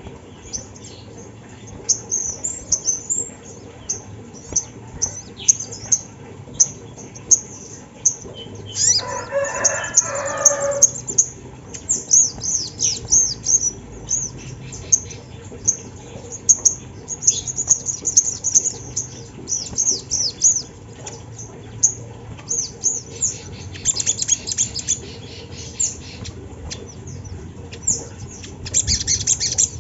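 Sogon (sogok ontong) bird singing: quick runs of thin, very high chips and short downward-sliding notes, turning into a dense high trill near the end. About nine seconds in, a lower rasping noise lasts about two seconds.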